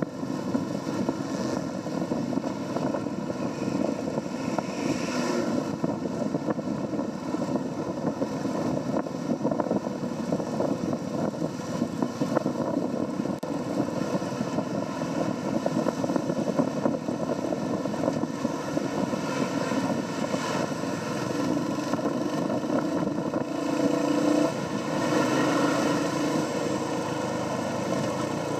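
Royal Enfield Hunter 350's single-cylinder engine running through its stock exhaust at riding speed, heard from on the bike with wind and road noise. It grows a little louder about three-quarters of the way through.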